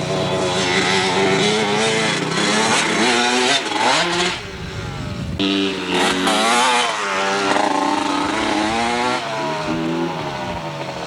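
Dirt bike engine revving, its pitch rising and falling over and over, with a short drop in level about four seconds in before it picks up again.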